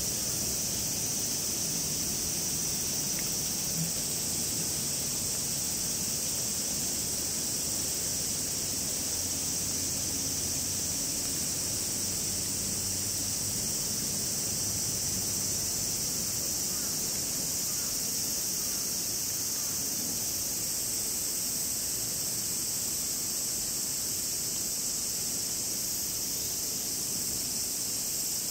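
Cicadas calling in a steady, unbroken high-pitched chorus.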